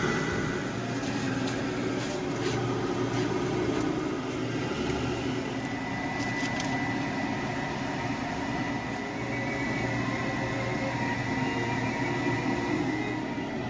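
A kitchen appliance running with a steady hum and a thin high whine, with a few light clicks about one to three seconds in.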